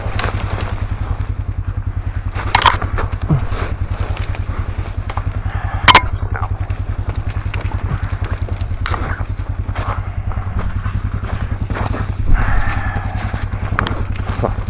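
A small vehicle engine running steadily at an even, rapid pulse. A few sharp cracks and crunches sound over it, the loudest about six seconds in.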